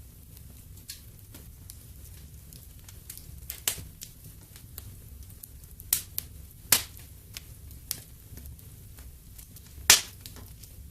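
Wood fire burning in a fireplace, crackling with scattered sharp pops over a low steady rumble; the loudest pop comes near the end.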